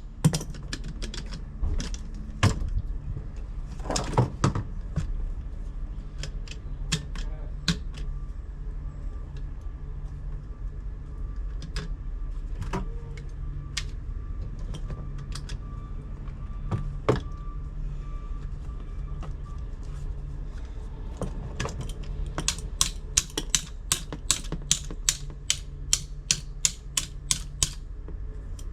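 Sharp metallic clicks of hand tools at work on an air handler during a blower motor replacement: scattered at first, then a quick regular run of about three clicks a second near the end, over a steady low hum.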